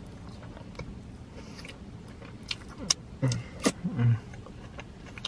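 Wet chewing and lip-smacking close to the microphone as a man eats a cheeseburger, with sharp mouth clicks bunched in the second half and two short closed-mouth "mm" murmurs about three and four seconds in.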